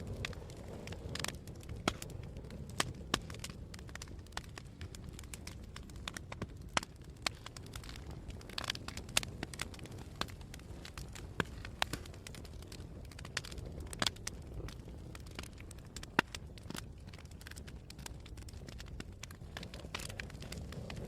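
Campfire burning, with irregular sharp crackles and pops from the burning wood over a steady low rumble of flames and wind.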